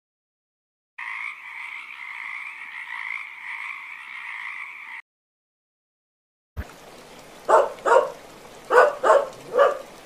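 A tree frog calling in one steady trill of about four seconds. Then, near the end, a Maltese dog gives five short yaps in quick succession.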